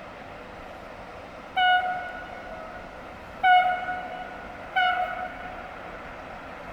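Train horn sounding three short blasts, the first two about two seconds apart and the third about a second and a half later, each with a short ringing tail, over a steady background rumble.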